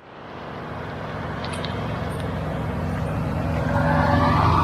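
Semi truck's diesel engine running steadily with road noise as the truck drives, fading in at the start and slowly growing louder. A few faint high ticks come between about 1.5 and 2 seconds in.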